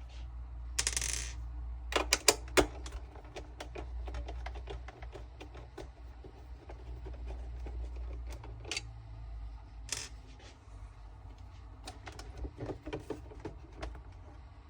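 Hands handling the plastic housing and screws of a disassembled robot vacuum: irregular sharp clicks, taps and small rattles, with a short scraping rustle about a second in and a cluster of louder clicks a second later, over a faint steady low hum.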